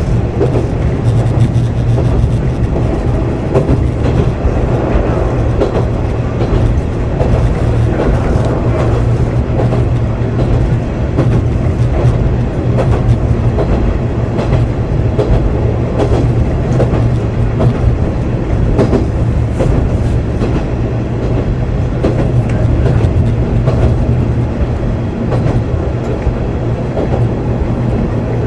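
Kanto Railway KiHa 2000 diesel railcar running, heard from inside the car: a steady low diesel engine drone, with the wheels clicking over rail joints.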